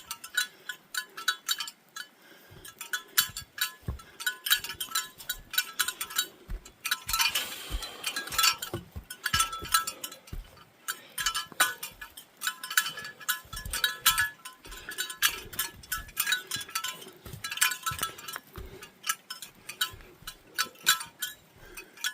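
Small bear bells jingling in quick bursts with each step of a hiker walking, with soft footfalls underneath.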